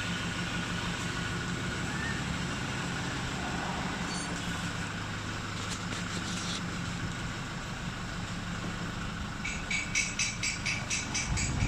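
Toyota Hilux diesel engine running steadily through its new full exhaust during a test drive, a low even drone. Near the end a quick run of clicks or rattles sounds over it.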